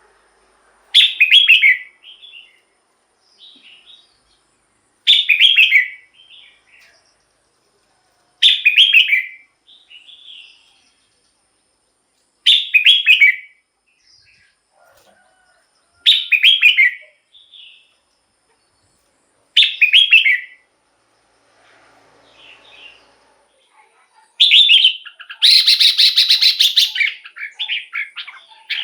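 Red-whiskered bulbul singing: short song phrases, each under a second, repeated about every three and a half seconds, then a longer, denser run of song near the end.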